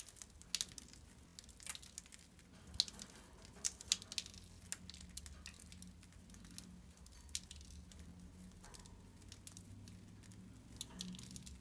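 A pet bird pecking at and husking millet seeds, making faint, irregular little clicks and cracks a few times a second, over a low steady hum.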